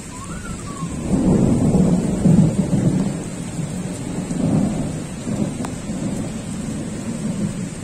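Steady rain falling, with an uneven low rumble that swells about a second in, peaks over the next couple of seconds and then eases off.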